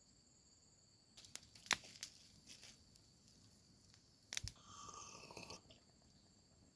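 Crickets trilling steadily in the background. Over them come a series of close crunching clicks, and a crinkling rustle about four and a half seconds in.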